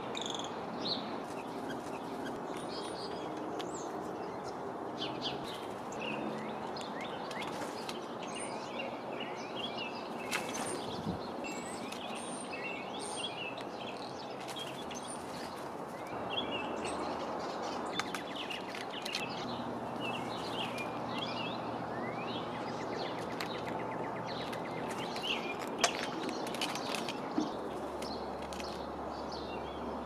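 Small birds chirping repeatedly in short, high calls, over a steady outdoor background noise.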